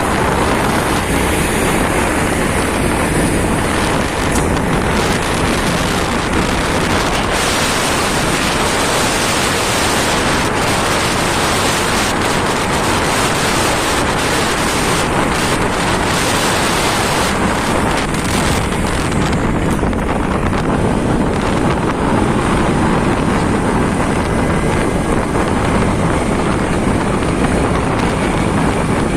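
Steady wind rushing over the microphone of a moving motorcycle, with road and engine noise underneath. The highest hiss thins somewhat about two-thirds of the way through.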